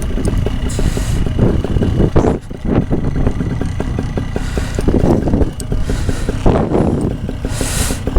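Wind buffeting the microphone: a loud, uneven rumble that surges and drops in gusts.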